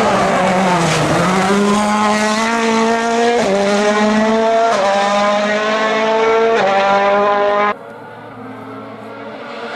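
2021 World Rally Car's 1.6-litre turbocharged four-cylinder engine, first dropping in pitch as it slows, then accelerating hard with three quick upshifts. Near the end the sound drops abruptly to a much fainter engine.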